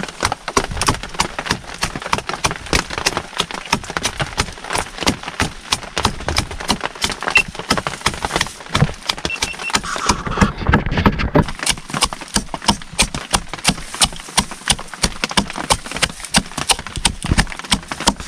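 Steady rhythmic knocking, about three to four blows a second: shallots, chili, garlic, galangal and lemongrass being pounded into a spice paste without a mortar.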